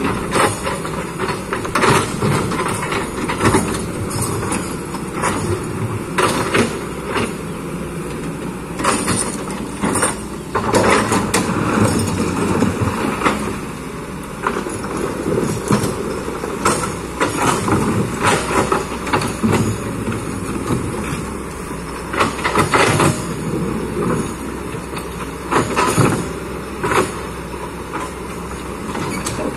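Kobelco hydraulic excavator running under load, with irregular clanks and scrapes throughout as the bucket works through rock and soil.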